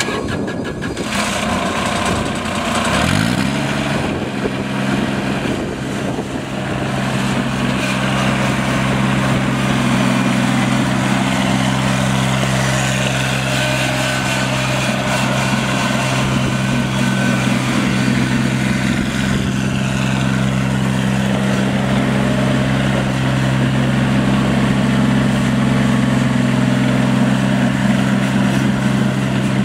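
Engine of a Simplicity 4x4 lawn tractor running. About three seconds in its pitch rises quickly to a steady speed, and it then runs evenly.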